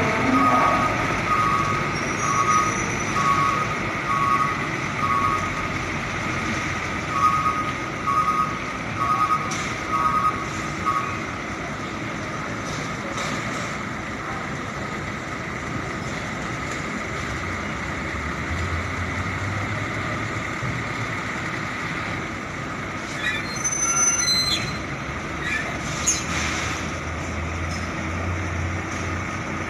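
Truck's reversing alarm beeping in an even run over steady vehicle noise, stopping about eleven seconds in; a heavy engine rumble then builds, with a brief high squeal around three-quarters of the way through.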